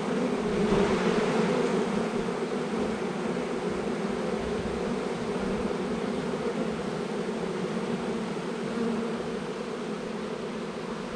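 Honey bees of a freshly hived swarm buzzing steadily around the hive entrance, a dense even drone of many bees.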